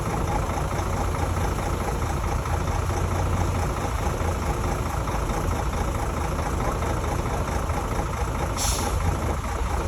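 Heavy diesel earthmoving machinery running steadily with a low engine hum. A short hiss comes near the end.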